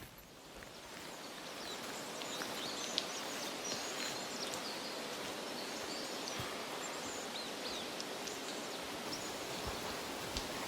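Steady outdoor rushing hiss that fades in over the first two seconds, with scattered short, high bird chirps over it and a single small click about three seconds in.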